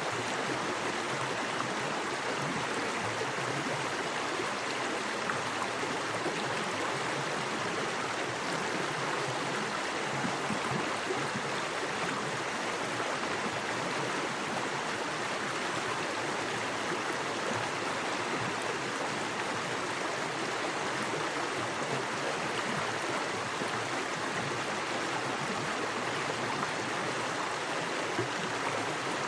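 Small forest creek running fast over rocks: a steady, even rush of water with a light gurgle.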